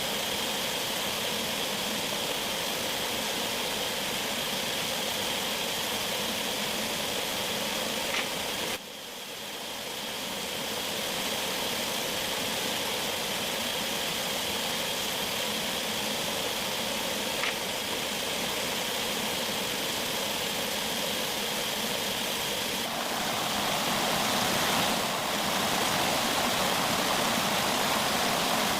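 Steady rush of running water with a faint high, even tone over it, dropping away suddenly about nine seconds in and fading back, then growing a little louder near the end.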